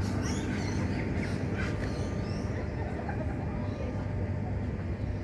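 Birds calling, a few short high chirps in the first couple of seconds, over a steady low hum.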